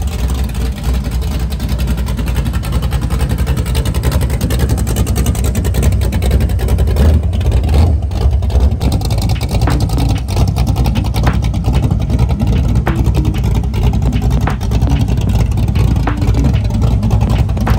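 A car engine running at a steady idle with a deep, even rumble.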